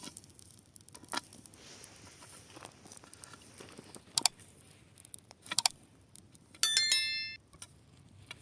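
Burning dry grass crackling, with a few sharp pops. About two-thirds in, a loud, bright metallic ring like a small bell sounds for under a second, the loudest thing here.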